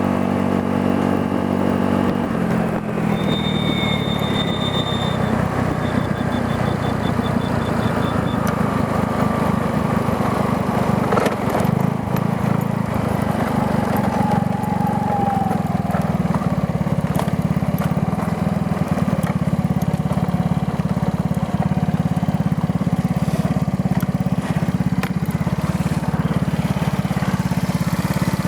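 GY6 150cc scooter's single-cylinder four-stroke engine running through a newly fitted cheap aftermarket performance exhaust, on its first run with it. The note is smooth and even for about two seconds, then turns rougher and holds steady.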